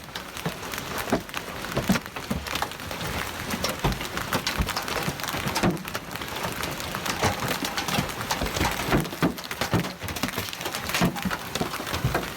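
Hailstorm: hailstones pelting down in a dense, continuous clatter of many small sharp impacts over a steady rain-like hiss.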